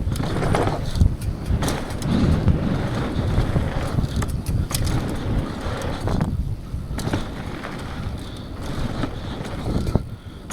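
Downhill mountain bike running over a dirt trail: a steady rumble from the tyres, with irregular clattering knocks from the bike over rough ground.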